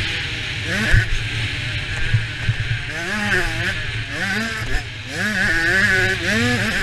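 A 65cc two-stroke motocross bike engine revving up and falling back again and again as the rider works the throttle and gears through the race. A short thump comes about a second in.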